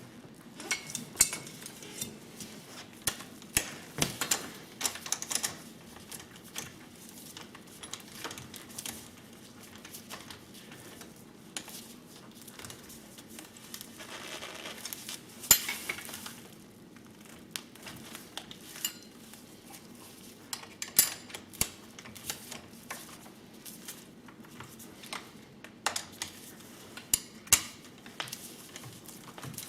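An Allen key and spanner clicking and clinking on the steel bolts of a pit bike's handlebar clamp as the bolts are tightened, with irregular sharp metallic clicks and knocks, the loudest about halfway through and again a few seconds later.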